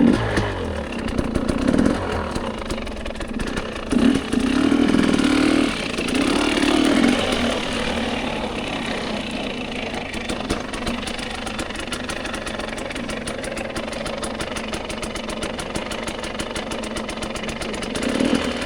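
Dirt bike engine running at low revs, with a few short throttle blips in the first seven seconds, then settling to a steady idle.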